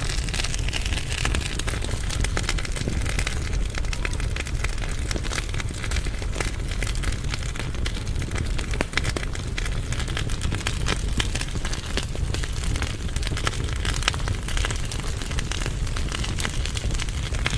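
Firewood burning in a fireplace firebox: a steady low rumble of the flames with frequent small sharp crackles and pops.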